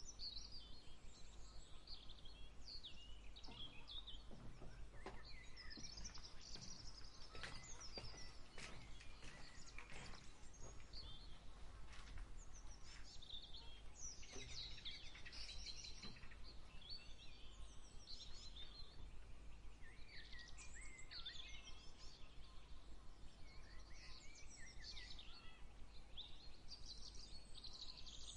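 Birds chirping and singing, with many short overlapping calls and trills throughout, over a steady low hum. A few faint clicks come in the first half.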